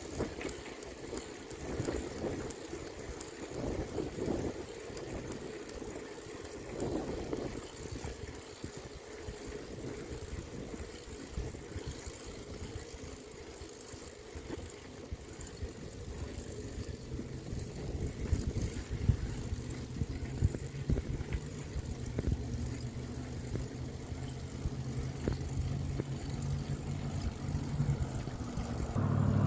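Wind rushing over the microphone while riding a bicycle, with a motor vehicle's engine hum growing steadily louder in the second half.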